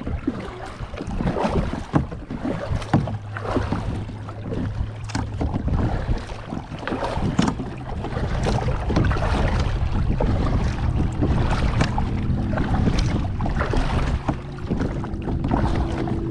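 Wind buffeting the microphone on a kayak, with choppy water slapping against the hull in many quick hits and a low steady hum underneath.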